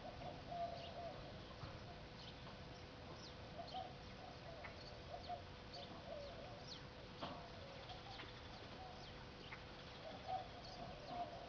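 Faint, scattered short chirps of birds, with a steady low hum underneath.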